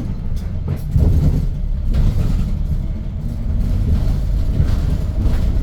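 Hyundai New Super Aerocity city bus with a C6AF Q290 CNG engine, heard from inside the cabin: a steady low engine and road rumble with a few brief knocks and rattles.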